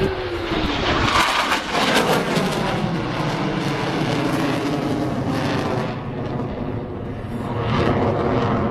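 Loud jet noise from a Eurofighter Typhoon's twin EJ200 turbofans as the jet flies its display. The noise eases off about six seconds in and swells again near the end.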